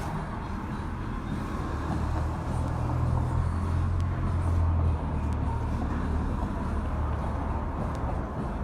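Low, steady engine rumble that swells for a few seconds and drops back about five seconds in.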